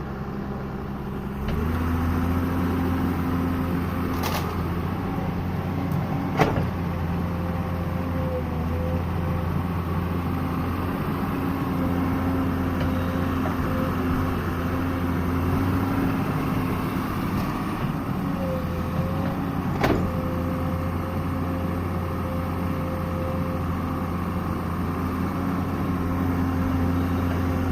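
Excavator's engine running steadily under working load, its hum stepping up about a second and a half in. Sharp metallic knocks come about four and six seconds in and again near twenty seconds.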